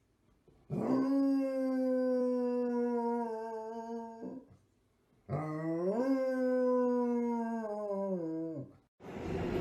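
A dog howling: two long howls, the first held at a nearly level pitch, the second rising and then falling away. A steady noise starts just before the end.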